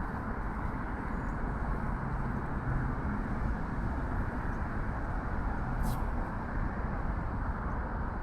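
Steady road-traffic noise, an even hum of passing vehicles. There is one brief high hiss about six seconds in.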